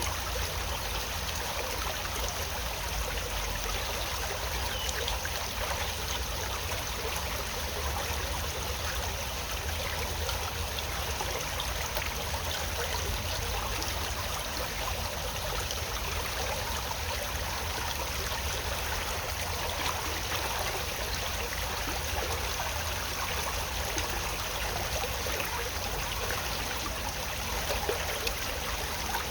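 Stream water flowing steadily, with a constant low rumble underneath.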